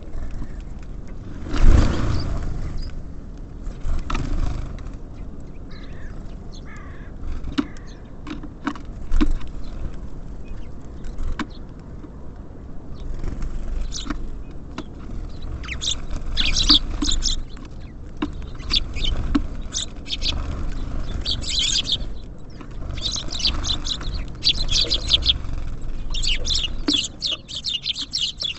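Small birds at a feeder: many sharp clicks and knocks of pecking and landing, with a loud knock about two seconds in. Dense high chirping and twittering builds through the second half, over a low steady rumble.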